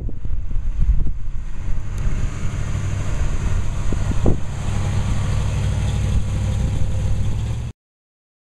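1968 Pontiac Firebird's 350 Pontiac V8 running steadily, with a few light clicks; it cuts off suddenly near the end.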